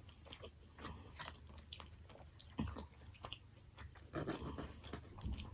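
A person chewing food, with soft, irregular mouth clicks and smacks.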